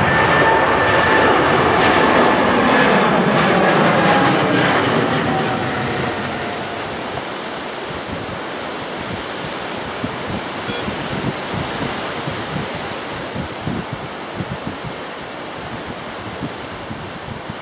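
Jet airliner passing close, its engine noise carrying a whine that slides down in pitch as it goes by and fades after about five seconds. Gusty wind then buffets the microphone.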